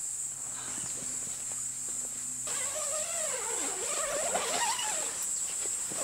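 Steady high-pitched chorus of insects in the surrounding forest. From about two and a half seconds in, a wavering pitched sound joins it.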